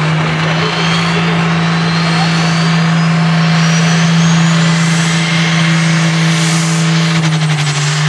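Light pro stock pulling tractor's turbocharged diesel engine running flat out under load down the pulling track, with a steady heavy engine note and a high turbo whine climbing slowly in pitch. The engine note drops off at the very end as the driver lets off.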